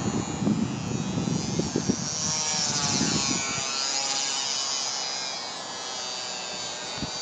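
Small electric motor and propeller of a ParkZone Su-26 XP radio-controlled plane whining in flight, its pitch swinging as it passes about three seconds in. Wind gusts buffet the microphone in the first couple of seconds.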